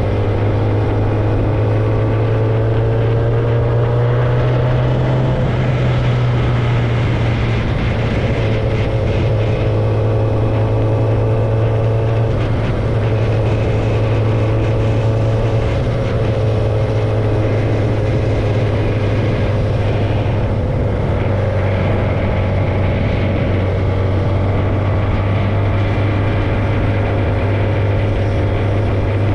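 Kawasaki ZX-10R's inline-four engine with no tailpipe fitted, running at fairly steady revs under way. The note wavers gently up and down as the throttle changes slightly.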